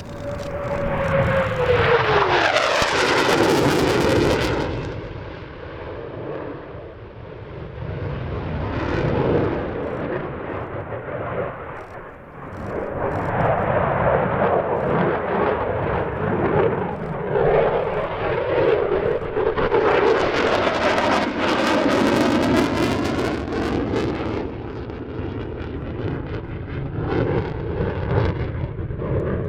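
Eurofighter Typhoon's twin EJ200 turbofans passing in a display. A loud pass comes in the first few seconds with a whine falling in pitch. The noise then eases, and it swells again into a second loud pass about twenty seconds in.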